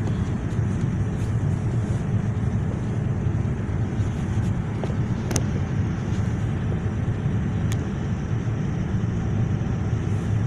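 Steady low rumble of a Boeing 787 cabin in flight on approach with the flaps down, engine and airflow noise at an even level. Two sharp clicks, about five and eight seconds in.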